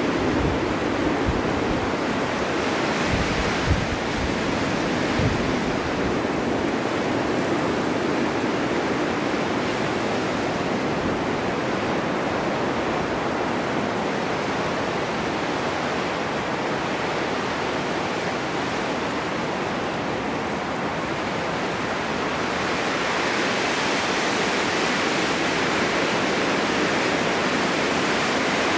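Snowstorm wind blowing steadily, a rushing hiss that swells and eases in gusts, with a stronger gust building over the last several seconds. A few low thumps in the first five seconds.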